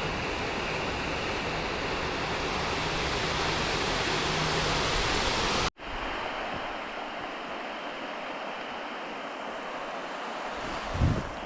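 Steady rushing noise of falling water. About halfway through it cuts abruptly to a thinner, quieter hiss, and a short low knock comes near the end.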